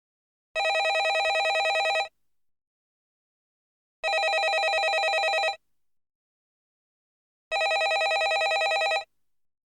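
Landline telephone ringing: three rings of about a second and a half each, with a fast trill, repeating every three and a half seconds with silence between.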